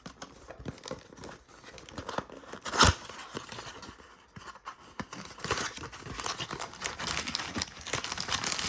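Trading card packaging being torn open and crinkled by hand. There is one sharp tear just before three seconds in, then from about five seconds on a denser run of crinkling from plastic-foil card pack wrappers.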